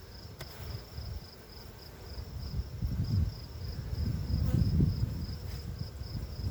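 An insect chirping steadily in a fast, even high-pitched pulse, over a low rumbling noise that swells about halfway through and is the loudest sound.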